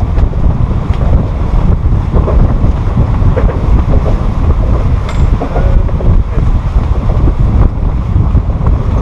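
Heavy wind buffeting the microphone: a loud, low rush that gusts up and down.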